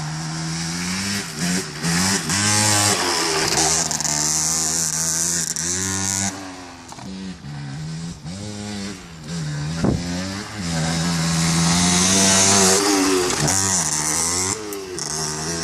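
Motocross dirt bike engine revving up and falling back again and again as the throttle is opened and closed, its pitch rising and dropping every second or two. There is a single sharp knock about ten seconds in.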